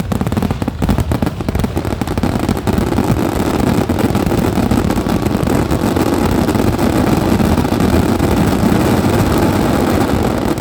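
Fireworks grand finale: a dense barrage of overlapping bangs and crackles that merge into a continuous loud rumble, dropping off abruptly near the end.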